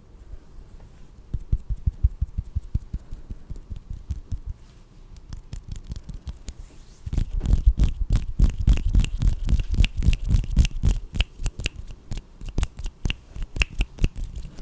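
Close-miked ASMR hand sounds: quick, sticky clicks, taps and rubbing of hands, becoming denser and louder about halfway through.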